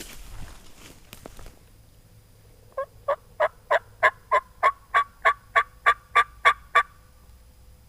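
Wild turkey yelping: a run of about fourteen evenly spaced yelps, roughly three a second, starting about three seconds in. It comes after a brief rustle of footsteps in leaves.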